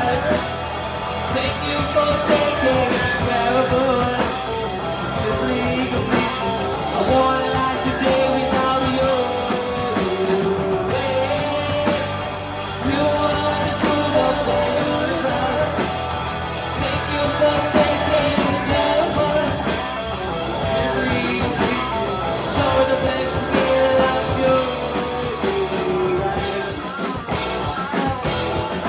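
Live rock band playing a song, with guitars under a sung melody.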